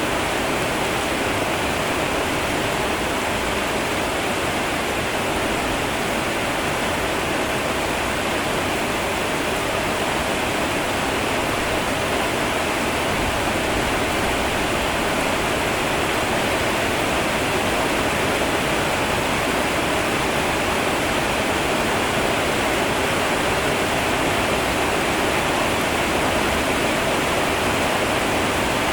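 Steady rain: a constant, even rushing noise with no breaks or changes.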